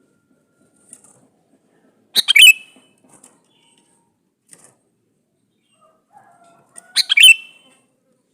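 Male sooty-headed bulbul (kutilang) calling: two short, loud chattering phrases about five seconds apart, one about two seconds in and one near the end, with a few faint chips between them.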